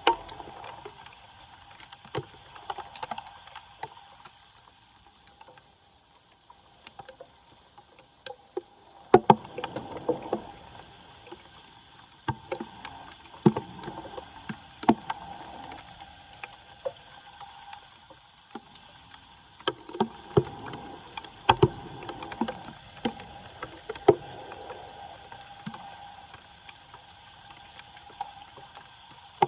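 Floodwater sloshing and splashing around a street drain, with scattered short knocks and splashes from work in the water.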